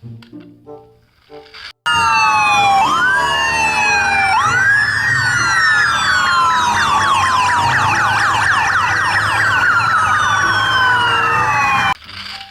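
Several emergency sirens sounding at once, with fast falling yelps over slower rising wails. They start suddenly about two seconds in and cut off suddenly near the end.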